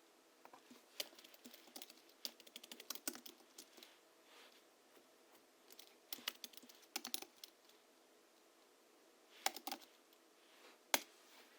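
Typing on a Hansung GHL-5X keyboard, its springs lubed with Krytox 103 and 107 and fitted with 50 g rubber domes: a quick run of keystrokes, then shorter bursts with pauses between, and one sharper single stroke near the end.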